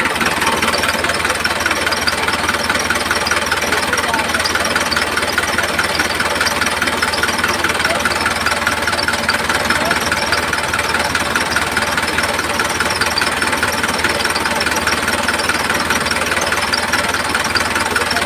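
A small engine running steadily at one even speed: a fast, dense chugging that does not change.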